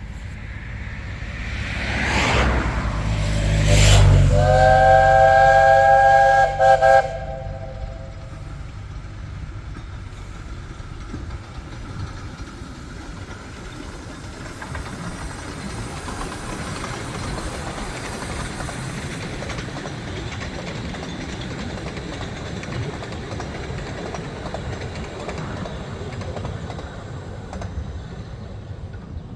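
Miniature steam locomotive on the 15-inch-gauge Ravenglass & Eskdale Railway passing with a loud rush about two to four seconds in. It then sounds its chime whistle, several notes at once, in one long blast of about two seconds followed by a short toot. After that the train's running noise goes on steadily.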